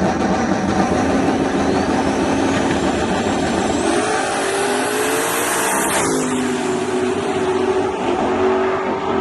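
Drag-racing S10 truck's engine running loud, with a high whine rising steadily over a few seconds, then a sudden change in the sound about six seconds in.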